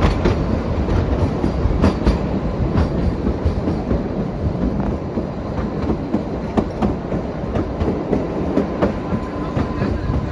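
Kalka–Shimla narrow-gauge toy train running along the track: a steady rumble with irregular clicks and knocks from the wheels and coach. A faint thin whine joins near the end.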